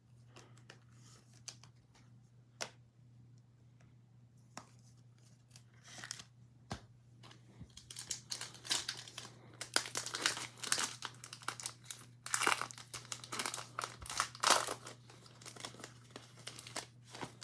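Plastic trading-card pack wrapper being torn open and crinkled by hand, after a few light taps. The crinkling starts about a third of the way in and runs until shortly before the end.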